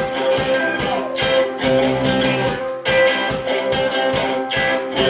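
Live rock band playing an instrumental passage led by guitar, with a sustained chord over a steady drum beat and no singing.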